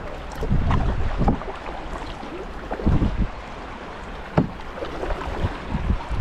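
Kayak paddle strokes splashing through fast, rippling river water, with irregular knocks and low rumbling, some of it wind on the microphone.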